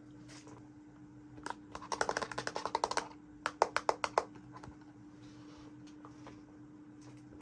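Small plastic toy pieces being handled, giving a quick run of light clicks and taps about two seconds in, then a few sharper separate clicks, over a faint steady hum.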